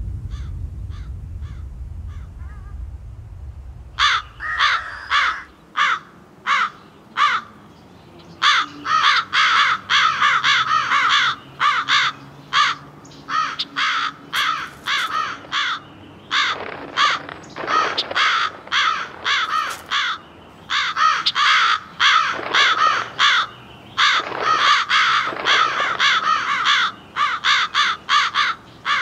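Crows cawing: from about four seconds in, short calls repeated in quick runs, at times overlapping, carry on to the end. A low rumble fades out during the first few seconds.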